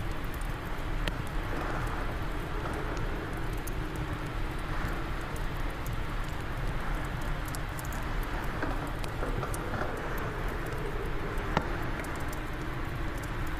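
Steady wind with a wood fire crackling, small sharp pops scattered irregularly throughout and one louder pop near the end.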